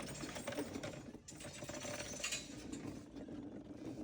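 Irregular mechanical clicking and rattling, like hand tools being worked on a car.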